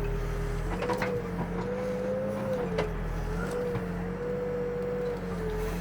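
Backhoe's diesel engine running under working load, its pitch dipping and recovering several times as the bucket works wet dirt. A few sharp knocks come about a second in and again near three seconds.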